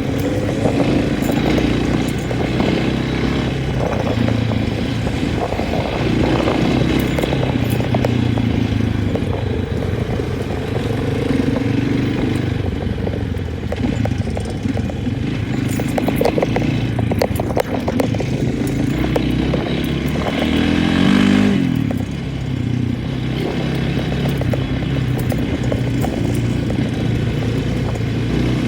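Vehicle engine running as it is driven, its pitch rising and falling, briefly revving up about two-thirds of the way in, with some rattling and clatter.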